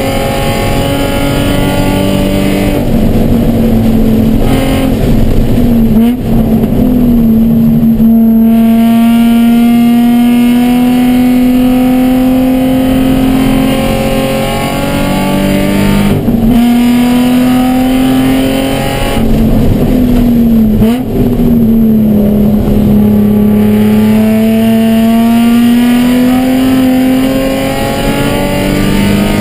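Nissan 350Z's 3.5-litre V6 racing engine heard loud from inside the cabin, pulling through the gears with revs climbing slowly between shifts, several gear changes and a couple of dips in revs. The car is short-shifted and down on power, which the driver puts down to an ECU fault.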